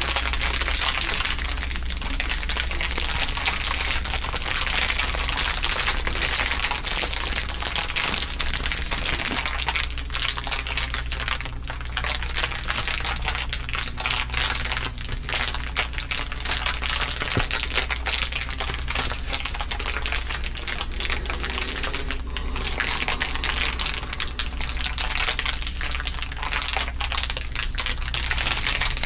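Layers of crinkling from handled crinkly material: dense, continuous crackling made of many rapid small clicks, over a steady low hum.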